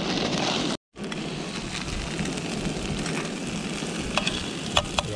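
Fried rice sizzling steadily on a hot griddle pan, with a few sharp clicks of metal tongs against the pan near the end.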